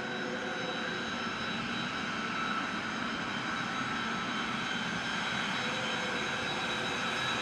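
Business jet's turbofan engines running: a steady high whine over a rushing noise, slowly growing louder.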